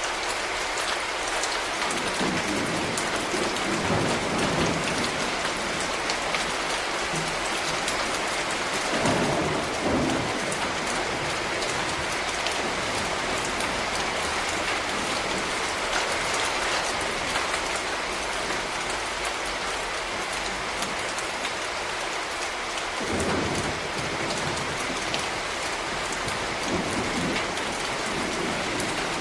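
Steady rain falling on a street, an even hiss throughout, with a few brief low rumbles rising out of it several times.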